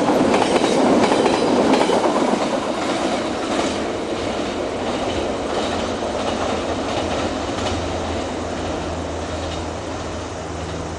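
Freight train wagons rolling past on the track, their wheels clicking over the rail joints, the sound slowly fading as the train draws away. A low steady hum shows more clearly in the second half.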